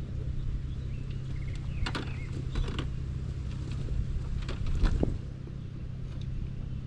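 Several sharp mechanical clicks and creaks over a steady low hum, the loudest about five seconds in.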